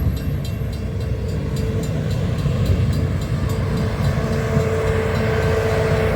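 CPKC Christmas Train rolling past: a heavy, steady rumble from the train with a sustained tone that grows stronger in the second half, and rapid clicking in the first couple of seconds.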